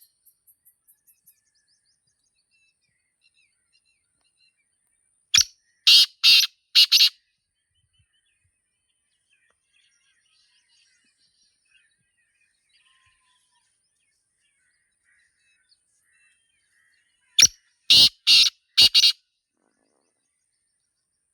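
Black francolin calling twice, about twelve seconds apart: each call is a short first note followed by three loud notes in quick succession. Faint chirps of small birds are heard between the calls.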